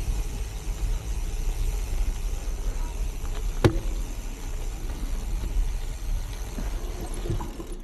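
Wind buffeting the microphone and the rolling rumble of a Trek Checkpoint gravel bike's wide 40 mm tyres on a gravel trail, with one sharp knock a bit over halfway through. The noise cuts off suddenly at the end.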